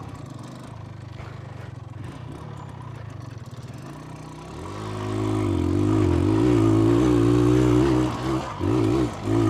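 1982 Cagiva SX 350's two-stroke engine running at low revs, then opened up about four and a half seconds in and held at high revs under load as the bike climbs. A few short throttle surges follow near the end.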